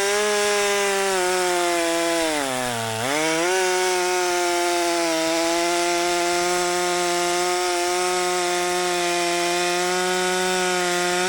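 STIHL MS462 two-stroke chainsaw running at high revs, bucking a log. Its revs dip sharply about three seconds in and pick straight back up.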